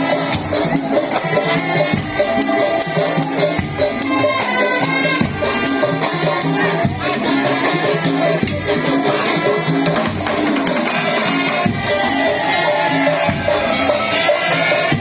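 Madurese tong-tong parade music from a loud percussion ensemble: continuous rhythmic strikes and rattling under shifting melodic lines.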